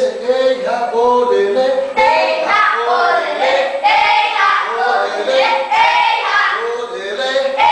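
A group of children singing a rain-dance chant together in steady, held phrases.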